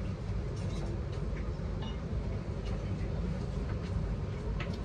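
Steady low rumble inside the carriage of a Class 444 Desiro electric train running along the track, with a few faint clicks.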